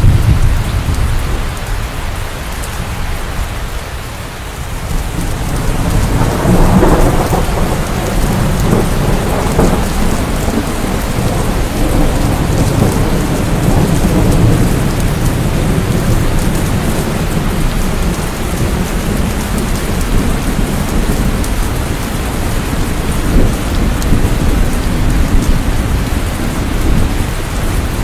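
Steady heavy rain with rolling thunder: a deep rumble builds about six seconds in and carries on under the rain.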